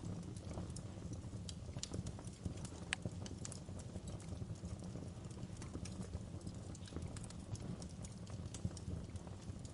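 Wood fire crackling: irregular sharp pops and snaps of burning wood over a low, steady rumble of the flames.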